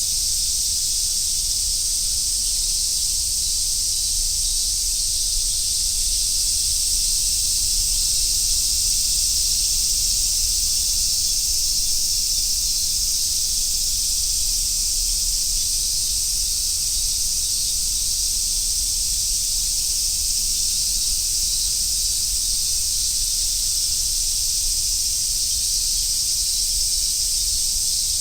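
Dense chorus of Japanese summer cicadas: a steady high buzz with no breaks, over a faint low rumble.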